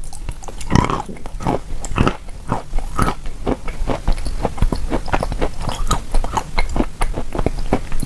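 Close-miked chewing of chalk coated in clay paste: a fast run of sharp crunches, several a second, as the pieces are bitten and ground between the teeth.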